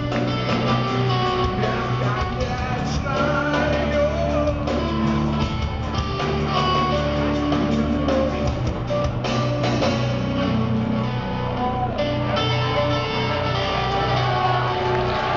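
Live rock band playing loud, with distorted electric guitars, bass and drums, and a voice faintly in the mix.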